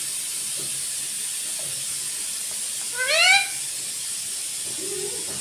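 Pet ring-necked parakeet giving one short call that rises in pitch, about three seconds in, over a steady background hiss.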